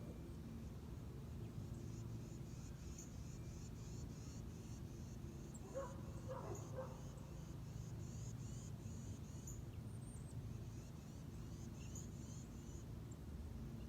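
Faint outdoor ambience: a steady low hum under a high, thin chirp repeated a few times a second, with a brief lower call about six seconds in.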